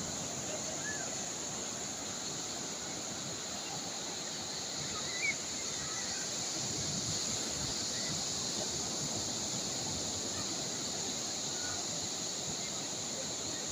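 Calm sea waves washing steadily, with a steady high-pitched hiss over them and a few faint bird chirps; a brief knock about five seconds in.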